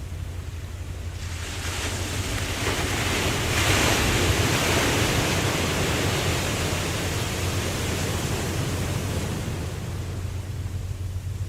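Ocean wave surging and washing: the rush builds about a second in, is loudest around four seconds, then slowly subsides. A steady low rumble runs underneath.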